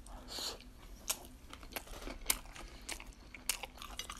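A person biting into and chewing a bite of caterpillar sushi roll (eel, cucumber and avocado), heard as scattered faint mouth clicks at an uneven pace.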